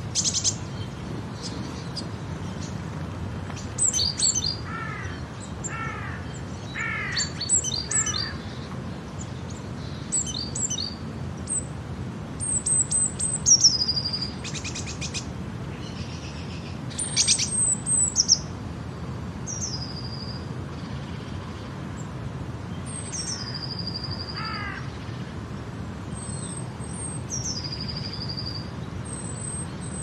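Several wild birds singing and calling, with high chirps and repeated falling whistles, over a steady low background rumble.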